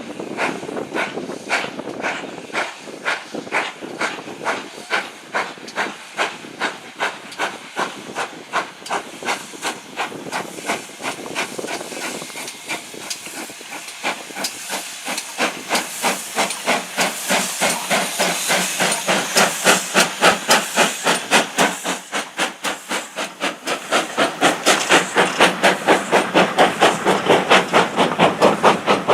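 Steam locomotive working under load, its exhaust chuffing in an even rhythm; the beats quicken and grow louder toward the end as it gathers speed or draws nearer.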